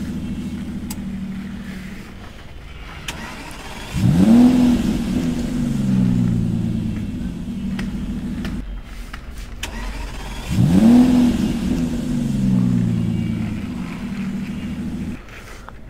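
Toy car's engine sound effect: a revving start that settles into a steady running note, played twice in the same way, each time cutting off suddenly.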